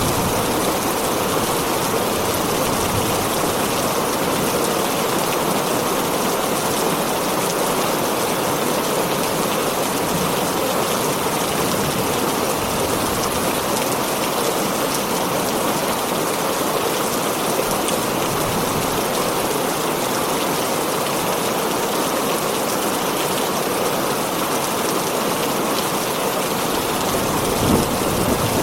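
Heavy rain falling steadily on a tin roof, a dense even hiss of drops. A low rumble of thunder starts to build near the end.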